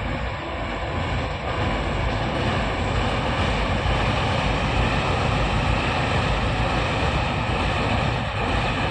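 Vande Bharat Express electric trainset running at speed across a long concrete railway bridge: a steady rumble of wheels on the bridge that swells over the first few seconds and then holds.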